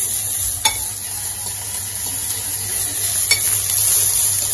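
Chopped garlic and green pepper sizzling as they sauté in a small aluminium pot on a gas stove, stirred with a steel spoon that clicks against the pot twice.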